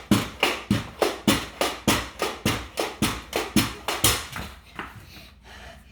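Pogo stick bouncing rapidly on a hard floor, about three and a half even thumps a second, each with a short falling springy boing; the bouncing stops about four seconds in.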